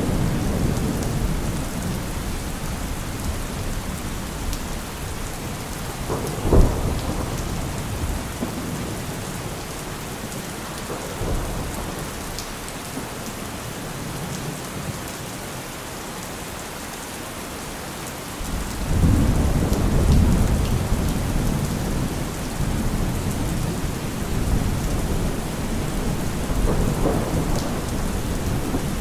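Heavy rain falling steadily, with thunder: a sharp crack about a quarter of the way in, then a long deep rumble that starts suddenly about two-thirds of the way through and rolls on.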